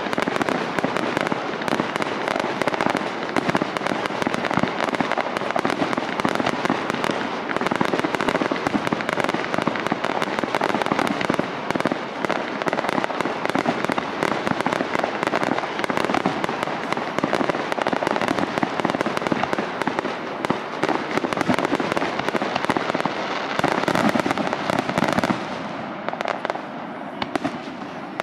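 Aerial fireworks display firing a dense, continuous barrage of rapid, overlapping bangs, thinning out near the end.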